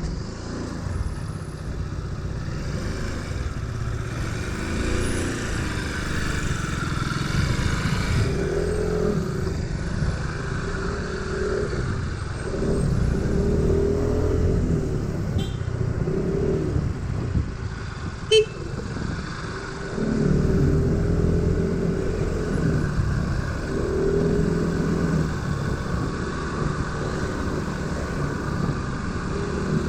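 Motor scooter engine running under way on the road, heard over wind rumble on the microphone, its pitch rising and falling again and again as the throttle opens and closes. A single short sharp knock about eighteen seconds in.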